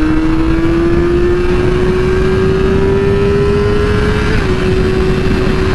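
2008 Yamaha R6's inline-four engine pulling while ridden, its note rising slowly for about four seconds and then holding steady, over heavy wind rush on the microphone.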